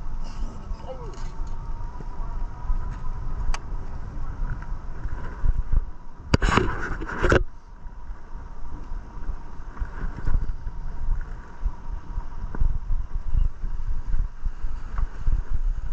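Wind and road rumble on a bike-mounted action camera while riding an e-bike, a steady low buffeting. About six seconds in, a brief loud hiss lasts about a second.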